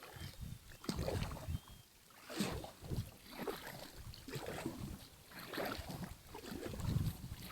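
Kayak paddle strokes in river water: the blade dips and pulls with a splash roughly every second, stroke after stroke.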